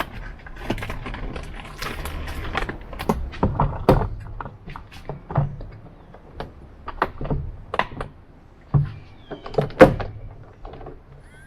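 Clicks, knocks and rustling from handling a portable battery-powered water heater while fresh batteries are fitted, with a sharp knock near the end.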